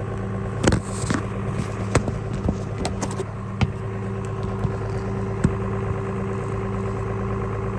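A farm vehicle's engine idling steadily, with a few sharp clicks and knocks over the first half from a hay bale being handled.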